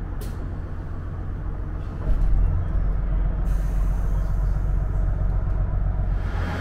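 Diesel railcar running, heard from inside the passenger car: a steady low engine drone with rumble from the rails, which gets louder about two seconds in. A single short click sounds right at the start.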